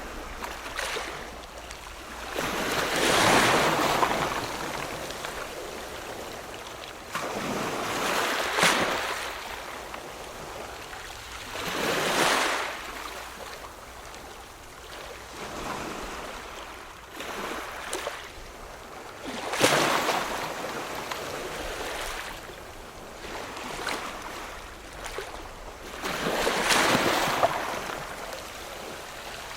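Ocean waves washing in, each swelling and falling away in a hiss, about seven surges a few seconds apart.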